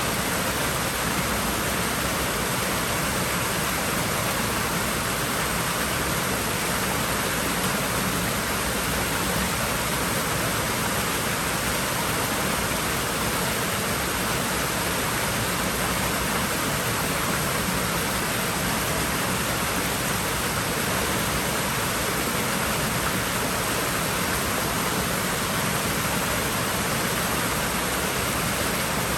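Swimming-pool water running with a steady, even rush that does not change.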